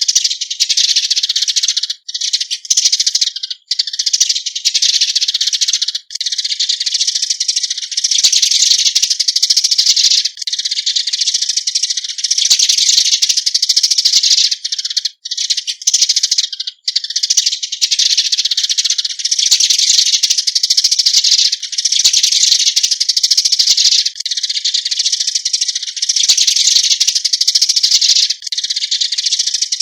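A flock of Eurasian tree sparrows calling: a dense chatter of high chirps, broken by a few brief gaps. This is their flock-gathering call.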